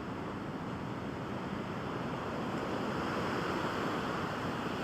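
Pacific surf washing onto the beach, a steady rush of waves that swells a little louder about halfway through.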